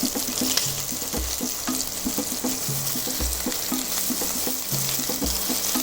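Chicken leg pieces sizzling steadily as they fry in oil in a pan, turned down to a lower heat to cook through. Background music with a repeating bass line plays over it.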